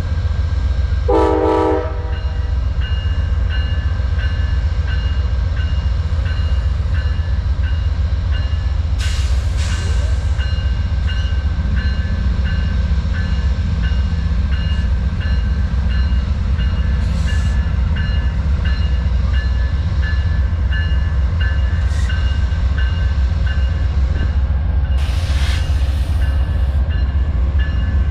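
Amtrak passenger train's diesel locomotive rumbling steadily at the station. A short horn sounds about a second in. A high ding repeats about twice a second through most of it, and there are three short hisses.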